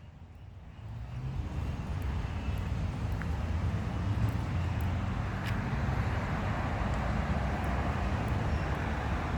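Road and engine noise inside a moving truck: a steady low rumble that builds over the first second or two, then holds.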